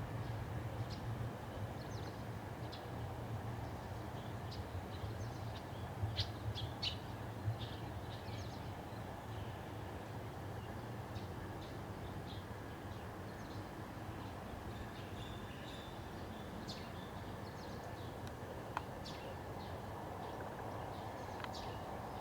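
Birds chirping in short, scattered notes, busiest about six to seven and a half seconds in, over a steady low background hum.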